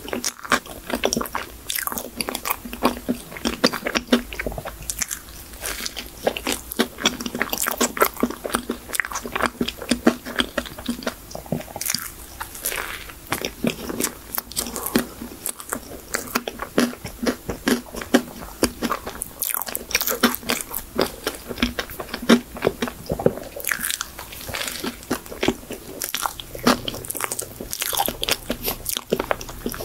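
Close-miked chewing and biting of a chocolate folding cake: a rapid, irregular run of small crunches and mouth clicks.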